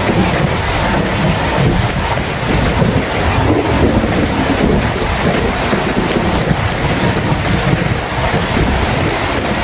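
Heavy rain falling steadily, with a continuous low rumble of thunder underneath and no sharp crack.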